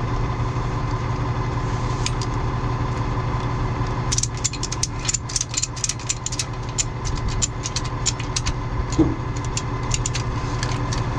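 Tow truck engine idling steadily, with about four seconds of rapid metal clicking and rattling in the middle as axle-strap hardware is handled, and a brief squeak near the end.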